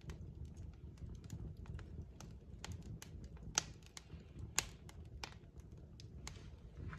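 Wood fire crackling in a fireplace: irregular snaps of burning logs over a low, steady rumble of the flames, with two louder pops about a second apart in the middle.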